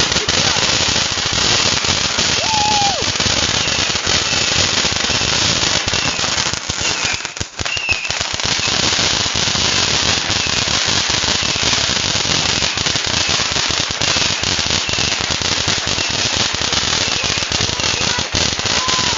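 Consumer fireworks going off: a dense, continuous rapid crackle of small bangs that thins out briefly about seven seconds in, with a few short whistles gliding in pitch.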